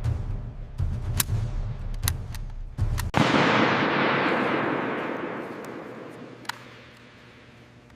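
Low rumble with a few sharp clicks, then about three seconds in a sudden loud blast that dies away slowly over some four seconds, its hiss sinking in pitch as it fades.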